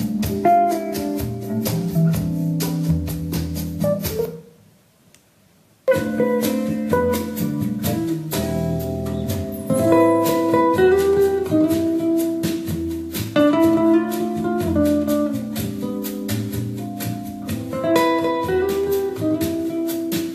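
Guitar-led music with drums played back through a JBL portable Bluetooth speaker. The music drops out about four seconds in and starts again about a second and a half later.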